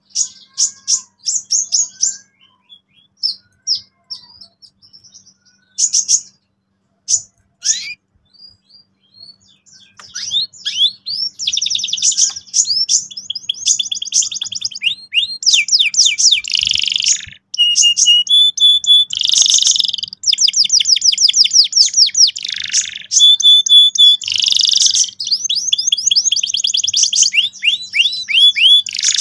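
Domestic canary singing: fast rolling trills of rapidly repeated high notes, in scattered short phrases at first, then nearly continuous trilling from about a third of the way in.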